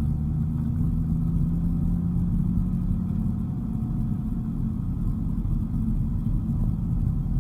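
Dodge Viper GTS's V10 engine running steadily, a low drone over road rumble.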